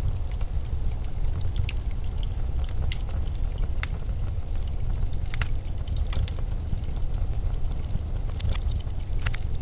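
Blizzard wind as a steady low rumble, with scattered sharp crackles and ticks throughout.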